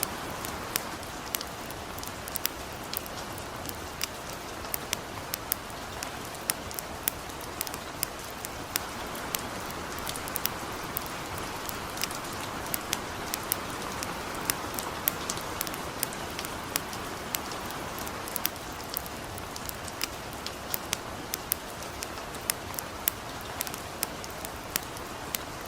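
Light rain falling steadily, with a campfire burning alongside it, giving many short, sharp crackles at irregular times.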